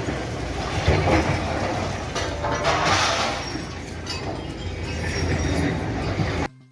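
Heavy demolition machine's engine running with clattering and crashing of breaking rubble and glass as a building is torn down; the sound cuts off abruptly just before the end.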